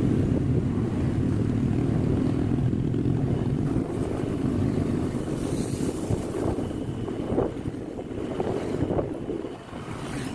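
Wind buffeting the microphone while riding a Honda Click 125i scooter, over a steady low rumble of road and engine noise. It eases off somewhat near the end.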